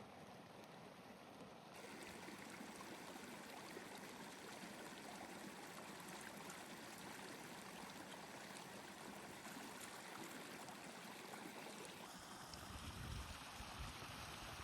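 Steady, faint hiss of running water. About two seconds in the hiss gets brighter, and near the end low rumbling comes in under it.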